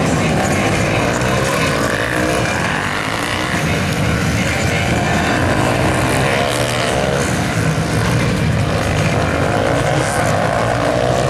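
Supermoto motorcycle engines revving up and down as the bikes ride around the track, several engine notes overlapping and rising and falling with each throttle change.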